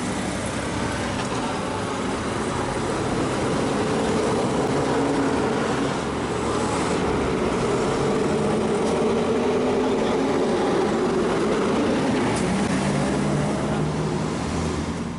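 Steady road and traffic noise picked up by a bicycle-mounted action camera, with vehicle engines humming, sped up; it fades out sharply at the very end.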